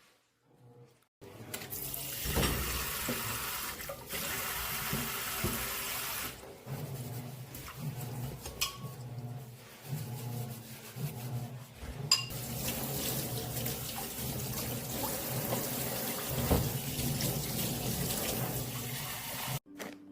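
Water running from a tap into a sink, with a few knocks of dishes. The water starts about a second in and shuts off just before the end.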